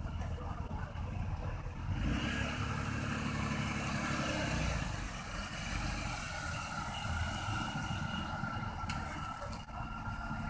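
A Chevrolet Lumina's engine running as the car drives slowly past.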